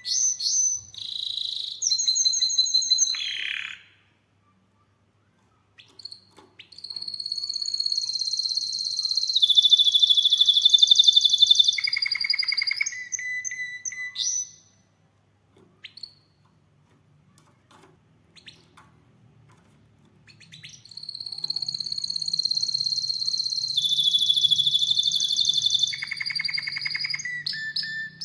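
Domestic canary singing long phrases of rapid, high trills in three bouts, with pauses of a few seconds between them holding only a few faint chirps.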